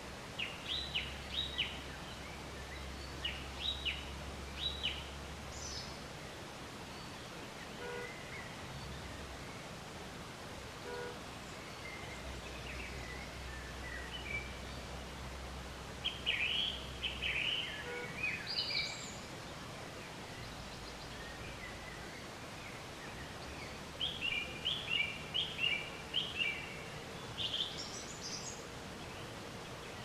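Small birds chirping in several bursts of quick, high calls over a steady faint outdoor background hiss.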